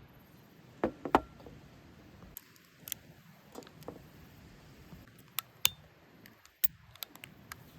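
A series of irregular sharp clicks and knocks, the two loudest close together about a second in, then smaller ones scattered through.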